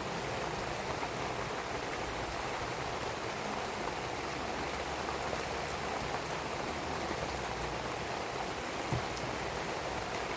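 Steady rain falling in an even wash, with a few faint clicks scattered through it.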